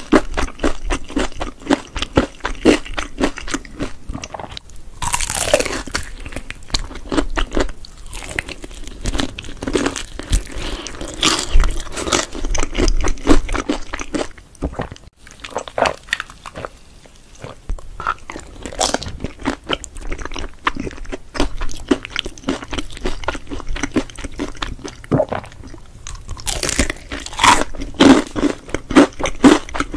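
Close-miked eating sounds: chewing and biting into cheese-topped baked pasta, a rapid run of short mouth clicks and smacks.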